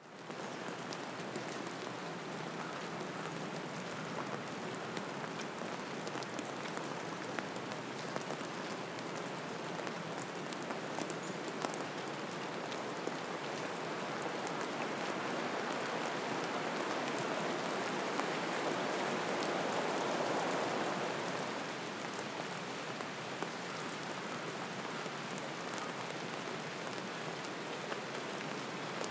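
Steady rain falling, a continuous hiss with a patter of individual drops ticking through it. It swells louder for a few seconds about two-thirds of the way through, then settles back.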